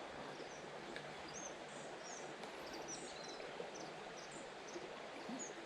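Outdoor creek-side ambience: a steady faint hiss of background noise, with small high bird chirps scattered throughout.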